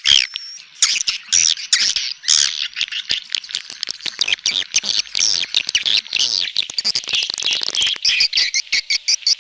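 Recorded swiftlet calls used as a lure sound for swiftlet houses: a dense stream of high, rapid chirps and twitters, turning into a faster, more even chattering near the end.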